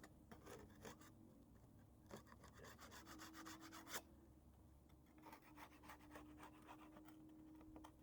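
Faint hand scraping on the building's side: two runs of quick rubbing strokes, one about two seconds in and another from about five seconds in.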